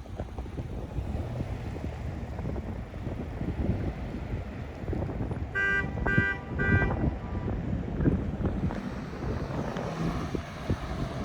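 Wind buffeting the microphone over a low, uneven vehicle rumble. About halfway through come three short, high-pitched beeps in quick succession.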